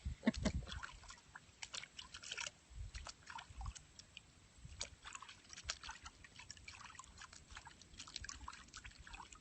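Water sloshing and dribbling in small, irregular splashes and clicks as a hen's soiled vent feathers are washed by hand.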